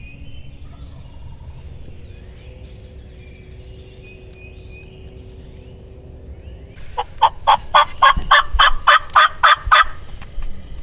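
Wild turkey yelping: a loud, rapid run of about a dozen evenly spaced yelps, starting about seven seconds in and lasting about three seconds. Faint songbird chirps come before it.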